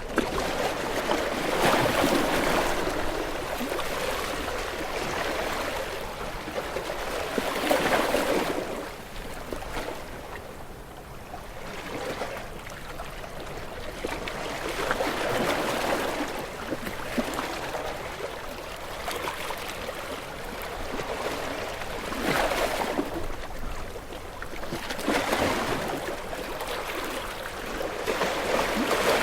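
Ocean waves breaking and washing up on a shore, the surf swelling and ebbing every few seconds.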